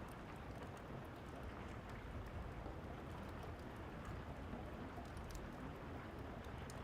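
Steady rain falling, with the faint, scattered small pops of a crackling wood fire.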